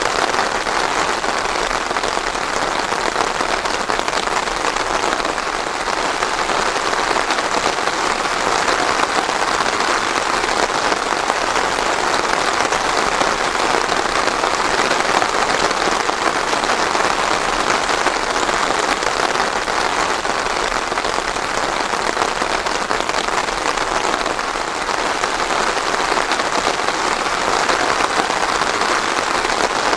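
Steady, dense rainfall pattering on a surface, with no thunder.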